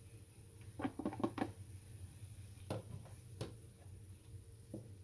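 Light clicks and taps of kitchen utensils handled at the stove: a quick cluster about a second in, then single taps near three and four and a half seconds in, over a low steady hum.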